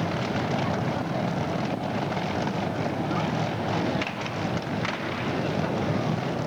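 Motorcycle engines running, a steady mechanical drone with no pause.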